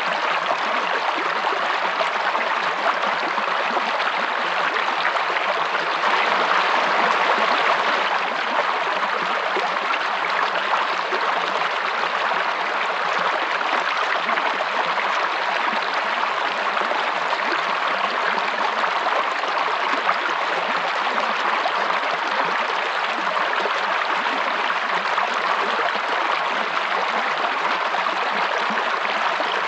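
Running water of a stream or small waterfall: a steady, even rush, a little louder for a couple of seconds about six seconds in.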